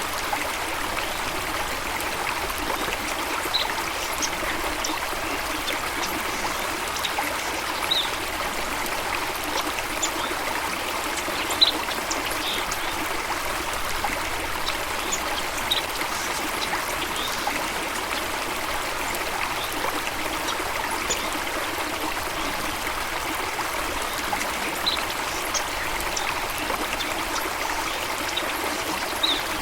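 Steady running water, trickling, with scattered brief high-pitched sounds over it; the loudest comes about twelve seconds in.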